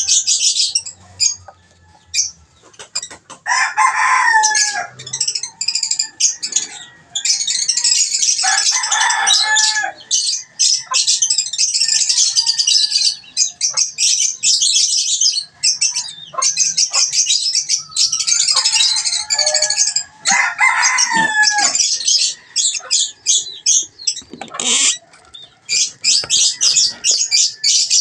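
A flock of caged African lovebirds chattering: dense, shrill, rapid twittering. It is broken three times by longer, lower calls that slide down in pitch.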